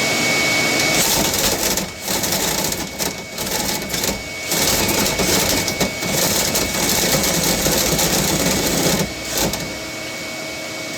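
Dryer vent cleaning equipment running: a loud, steady rushing noise with a fine rapid rattle, its level dipping briefly several times.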